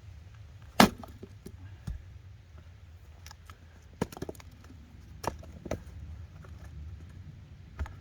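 Firewood being worked: one sharp, loud wooden strike about a second in, then scattered lighter knocks and clacks of wood on wood.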